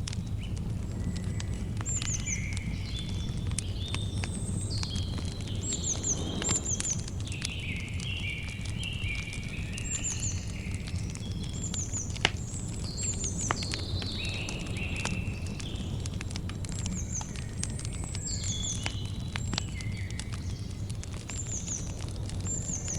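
Campfire crackling with scattered sharp pops, one louder pop about halfway through, over a steady low rumble, while small birds keep up repeated short chirps and quick falling whistles.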